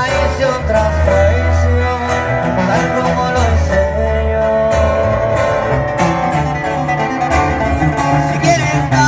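Live band music from a soundcheck: plucked guitars playing a melody over a deep bass line.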